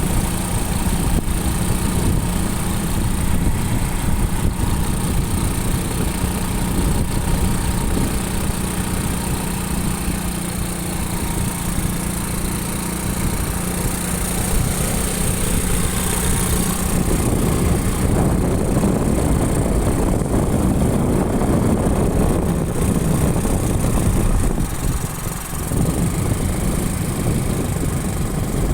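Motorcycle running steadily while riding, with road and wind rumble. A steady engine hum gives way to a rougher rush about two-thirds of the way in, with a brief drop shortly before the end.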